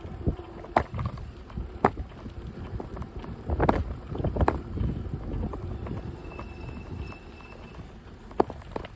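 Bicycle rolling along a path: a steady low rumble of tyres with a few sharp clicks and knocks as the bike rattles over bumps, and a faint high tone for a second or so near the middle.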